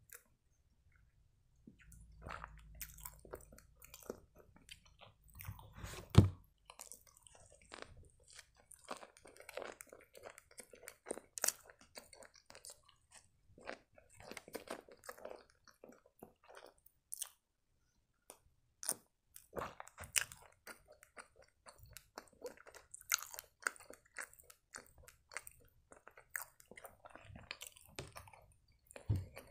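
Close-miked mukbang eating: biting and chewing a flaky chocolate croissant, with small crunches of pastry and wet mouth sounds coming irregularly throughout. One sharp knock stands out about six seconds in.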